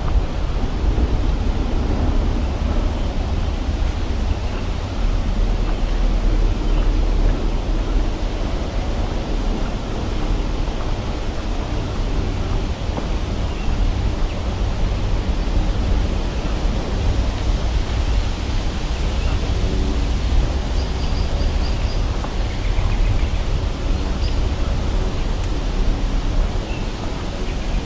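Wind buffeting the camera's microphone: a steady rushing noise with a heavy low rumble.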